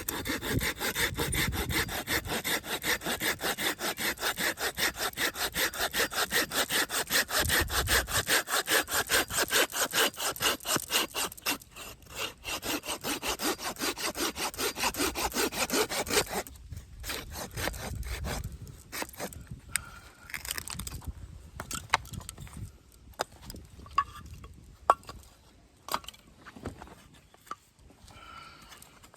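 Samurai hand saw cutting through wood in fast, even strokes, about four a second, with a short pause partway and stopping a little past halfway. Scattered light knocks and clicks of wood being handled follow.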